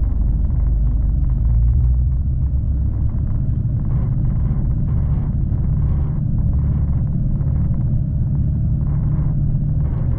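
Passenger train running along the line, a steady low rumble heard from inside the carriage.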